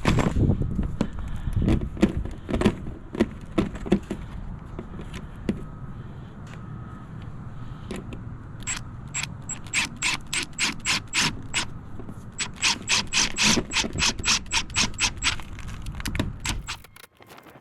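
Scattered knocks and handling noise, then two runs of rapid, evenly spaced mechanical clicking, about five clicks a second, each lasting about three seconds, from roughly nine seconds in.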